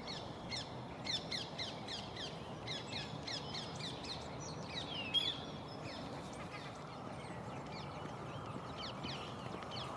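Several birds calling: a busy run of short, quick, downward-sweeping chirps, several a second, with one louder call about five seconds in, over a steady low background hum.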